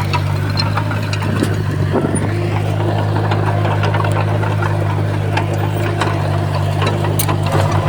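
Komatsu bulldozer's diesel engine running steadily under load, with scattered clanks and clicks from the tracks and the soil and stone being pushed.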